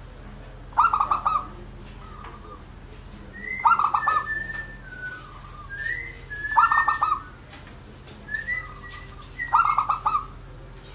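Zebra dove (perkutut) cooing: four stuttering phrases about three seconds apart, with softer whistled notes between them.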